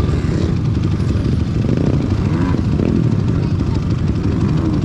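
Pit bike engine running steadily, a dense low buzz of rapid firing pulses.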